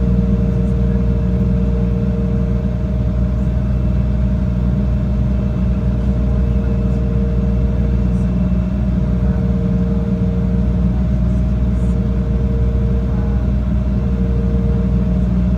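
Steady drone of a jet airliner's engines heard from inside the passenger cabin: a deep, even rumble with a couple of steady humming tones over it, holding level throughout.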